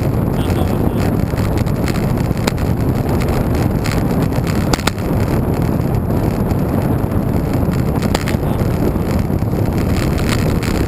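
Wind rushing over the microphone while riding a road bike, a steady low rumble with a few faint clicks.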